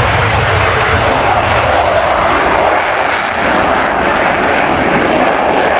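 Loud, steady engine noise of a fixed-wing aircraft in flight.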